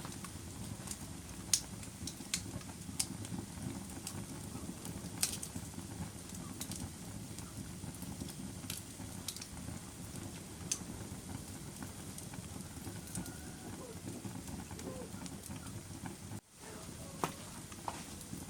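Fire burning in a fireplace: a steady low rush of flame with sharp, irregular crackles and pops, roughly one a second. The sound drops out for a split second near the end.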